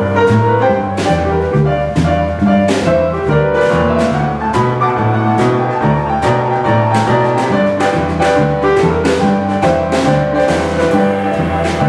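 Piano playing boogie-woogie: a steady, repeating rolling bass figure in the left hand under quick right-hand chords and runs.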